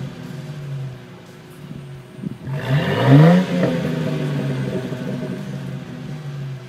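2000 Ford Mustang's 3.8-litre V6 through a MAC dual exhaust conversion, running steadily, then revved once about two and a half seconds in, its pitch rising quickly before it drops back to the steady note.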